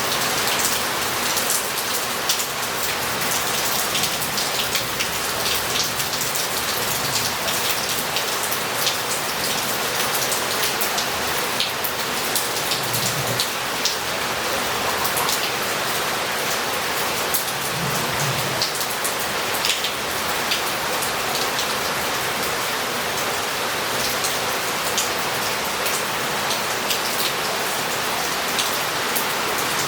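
Heavy rain falling steadily on roof tiles and the street, with water running off and many close drops splashing.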